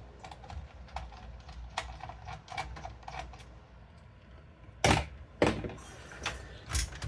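Light clicks and taps of computer parts being handled, with two sharp, louder knocks about five seconds in.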